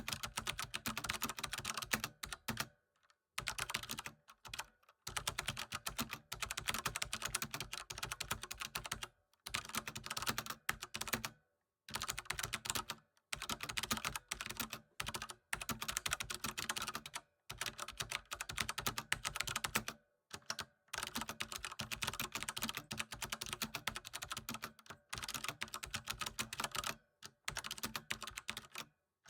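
Computer keyboard typing: fast, continuous keystroke clicks in runs of a few seconds, broken by brief pauses.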